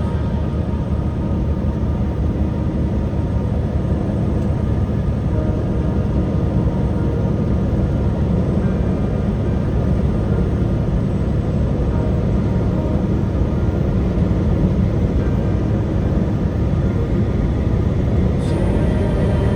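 Steady low rumble of a moving truck: road and engine noise without letup.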